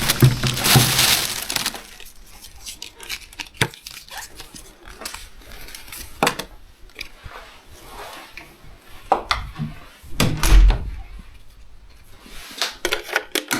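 Scattered knocks, clicks and clatters of objects being handled in a small room, with a burst of rustling in the first second or so and one heavier thump about ten and a half seconds in.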